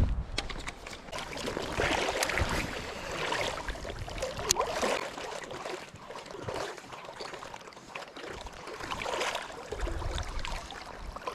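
Creek water splashing and trickling, with uneven swells of sloshing.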